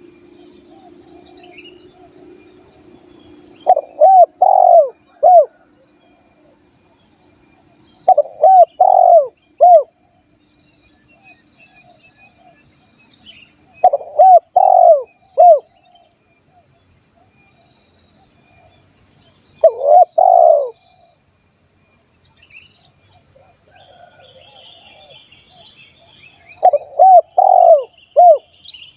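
Spotted dove (tekukur) cooing: five phrases a few seconds apart, each of a few short rising-and-falling coo notes. A steady high insect buzz runs underneath.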